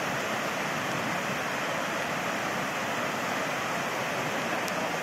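Fast-flowing floodwater rushing, a steady, even noise.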